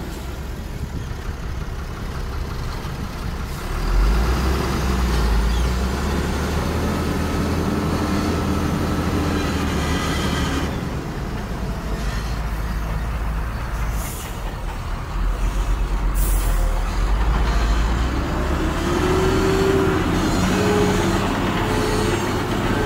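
Diesel engines of heavy earthmoving equipment running, their pitch rising and falling under load, with two short hisses about two-thirds of the way in.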